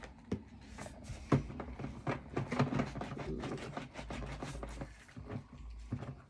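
Irregular clicks and knocks of toy cars being handled and scrubbed in a container.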